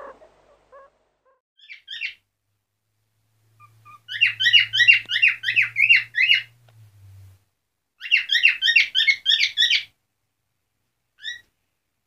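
Bird chirping: two quick runs of sharp, repeated high notes, several a second, with a few single chirps before and after.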